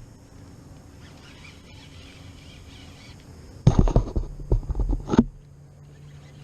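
Quiet open-air background with faint bird calls, then a loud cluster of knocks and bumps lasting about a second and a half, from gear being handled on the kayak.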